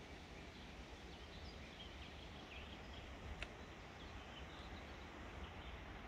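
Faint birdsong: small songbird chirps scattered over a low, steady background rumble, with one short sharp click about three and a half seconds in.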